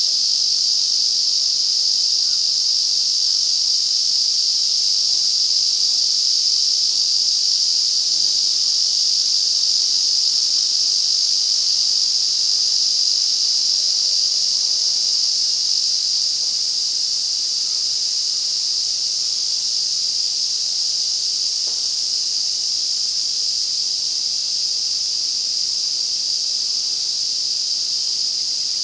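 Dense chorus of Ezo-cicadas (Lyristes japonicus): a loud, steady, continuous high-pitched buzz, easing slightly in level in the second half.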